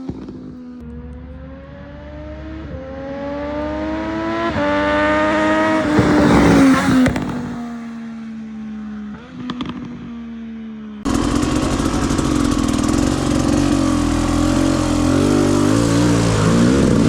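Triumph Street Triple 765 RS inline three-cylinder engine, through a full Spark exhaust, accelerating hard through the gears: its pitch climbs in steps three or four times, then drops off as it slows. About eleven seconds in, the engine gives way abruptly to a steady rush of wind noise on the microphone.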